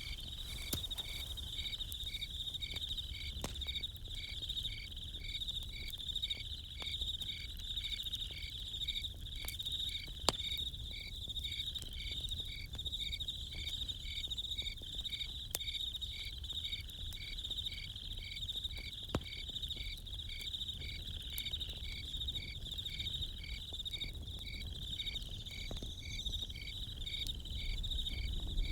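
Crickets chirping steadily, about two even chirps a second, over a continuous high insect trill. Occasional sharp pops and crackles from a campfire, the loudest about ten seconds in.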